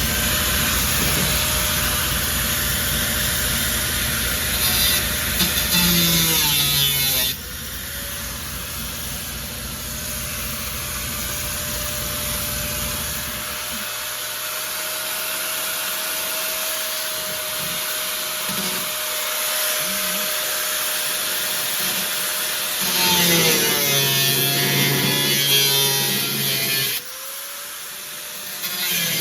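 A power tool runs in two long stretches, winding down in pitch about seven seconds in and again a couple of seconds before the end. A low pulsing hum underneath stops about halfway through.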